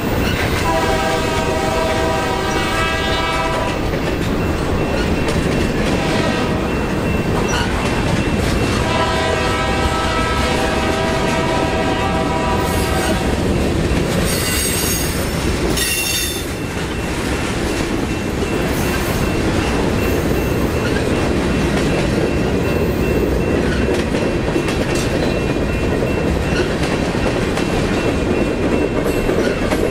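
Freight cars rolling past with steady wheel-on-rail rumble and clatter. A train horn sounds two long blasts ahead of the passing cars, one near the start and one about a third of the way in, most likely from the train's lead locomotive. There is a brief high wheel squeal about halfway through.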